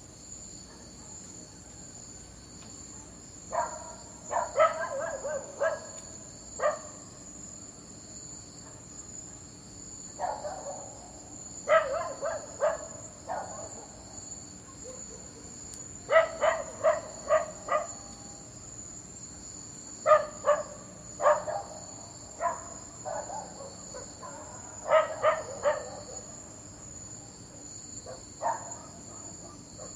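A dog barking in about six bouts of several quick barks each, a few seconds apart. A steady high-pitched insect chirring runs underneath.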